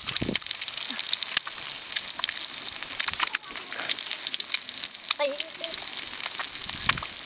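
Boiled eggs frying in hot oil on a dosa tawa griddle: a steady sizzle with many sharp crackling pops.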